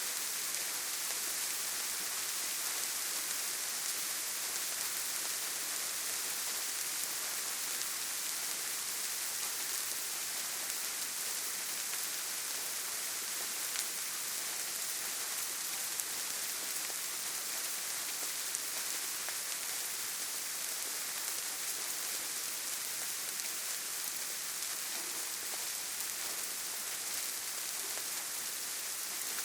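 Steady rain falling, a continuous hiss with scattered faint drop ticks.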